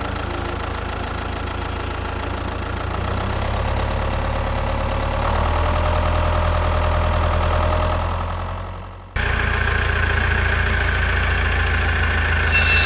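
Tractor engine running steadily with a low drone. It fades away about nine seconds in, then cuts suddenly back in.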